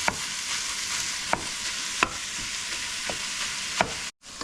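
Ground beef sizzling as it browns in a hot pan, with a steady frying hiss. A utensil clicks against the pan about five times as the meat is stirred.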